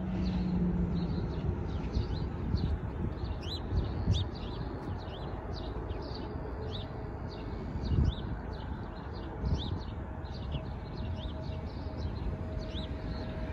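Small birds chirping busily, many short quick high calls one after another, over a steady low rumble with a thump about eight seconds in.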